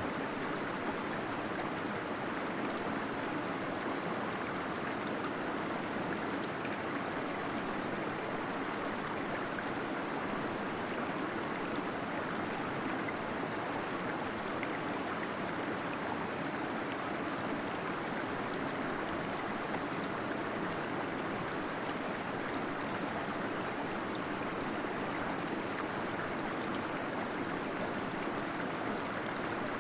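Waterfall pouring steadily into a cave, a constant rush of falling, gurgling water.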